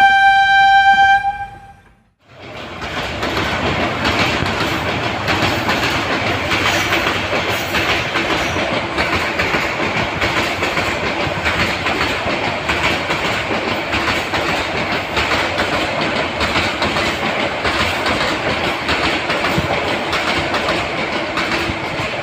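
A single held horn note lasting about a second. Then, after a brief gap, the Jamalpur Express train runs at speed: a steady rumble with continuous wheel clatter on the rails.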